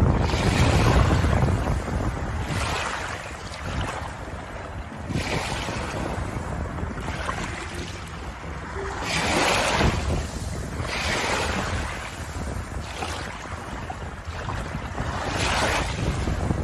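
Ocean waves breaking and washing ashore: a steady hiss with a low rumble beneath it, rising in repeated surges every two seconds or so.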